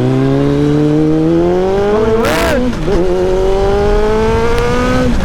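Kawasaki ZX-7R's inline-four engine pulling hard under acceleration, its pitch rising steadily, dipping once for an upshift about two and a half seconds in, then climbing again before dropping near the end as the throttle closes or the next gear goes in.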